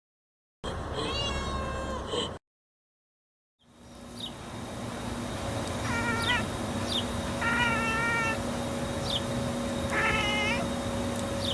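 Domestic cat chirping and chattering at birds: short, quavering trills, one burst near the start and then, after a pause, three more in the second half, over a steady low hum.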